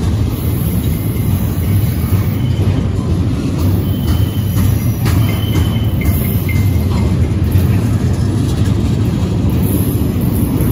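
Union Pacific double-stack intermodal freight train rolling past close by: a steady low rumble of steel wheels on the rails under the loaded container well cars, with a few faint short squeals midway.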